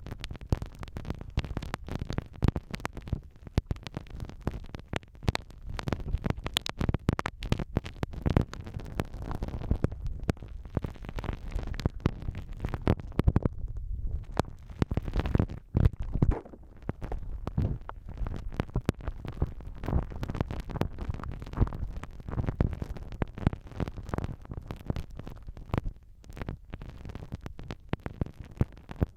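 Slime squished and pressed against a binaural microphone: a continuous run of wet, sticky squelches with many quick clicks.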